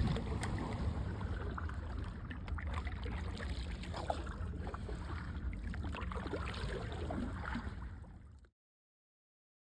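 Wind rumbling on the microphone over water around a small jon boat, with faint short squeaks and clicks mixed in. The sound cuts off abruptly about eight and a half seconds in.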